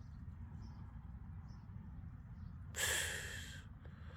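A person's single short breath out, like a sigh, about three seconds in, over a faint low steady rumble.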